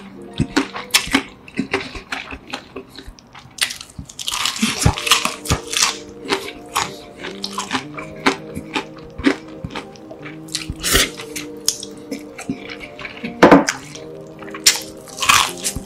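Close-up eating sounds: a person biting and chewing crisp-skinned chicken, with many short crunches and wet chewing clicks. The loudest crunches come about four seconds in and again near the end. Steady background music plays underneath.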